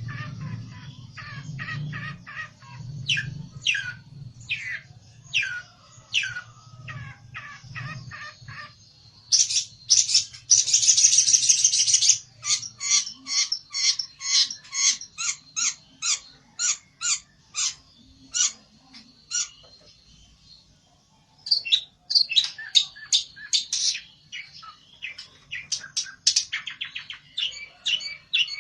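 Pelentet songbird calling agitatedly in fast runs of sharp, high chirps and trills, with a loud buzzy trill burst about ten seconds in and a brief pause near the two-thirds mark. The agitated calling is the bird challenging a rival. A faint low hum runs underneath during the first half.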